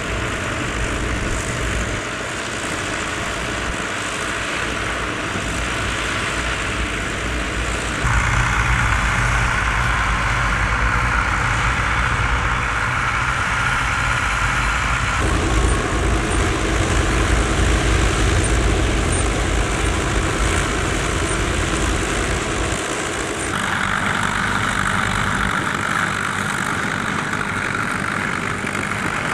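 Doe tractor engines running in the field, a steady engine drone whose sound changes abruptly three times.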